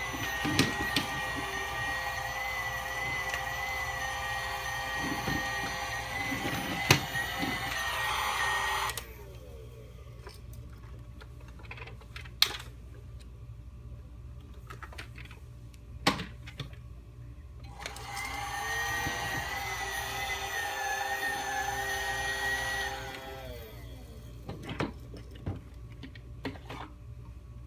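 Small electric motor of a toy vacuum cleaner running with a high whine. It switches off about nine seconds in and winds down, a few sharp clicks follow while it is off, then it runs again for about five seconds from about eighteen seconds in and winds down once more.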